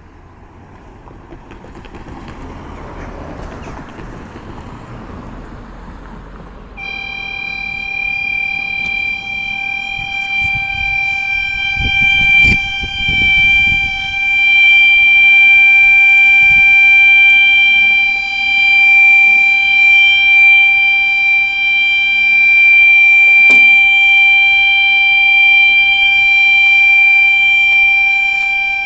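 Level crossing alarm sounding one steady, unchanging high tone that starts suddenly about seven seconds in, instead of its usual warbling yodel: the yodel alarm is broken. Before it comes a rising rush of noise, and a low rumble swells in the middle.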